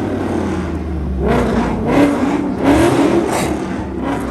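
Car engines revving over and over at a meet: a string of short rising revs with loud exhaust, over a steady low engine rumble that drops away about a second and a half in.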